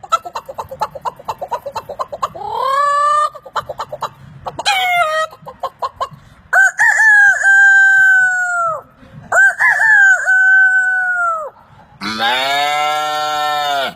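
A man's voice imitating a chicken: rapid clucking, then two long rooster crows of about two seconds each. About twelve seconds in, a deeper, lower-pitched animal imitation begins.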